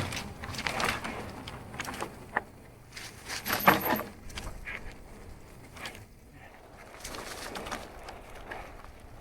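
Marin Alpine Trail 7 full-suspension mountain bike rolling fast down a dirt trail: tyres crunching over ground, with irregular knocks and rattles of the bike over bumps and a louder clatter about three and a half seconds in.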